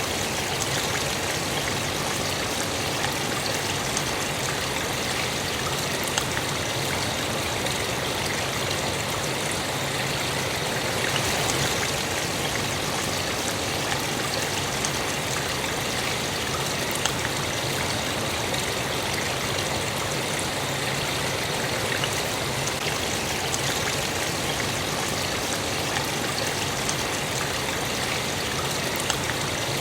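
Steady sound of running water, with a few faint clicks here and there and a slight swell about a third of the way in.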